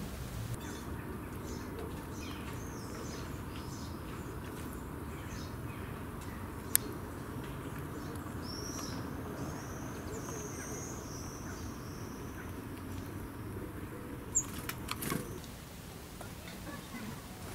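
Small birds chirping and whistling over a steady low outdoor hum, with a single sharp click about halfway through and a few taps near the end.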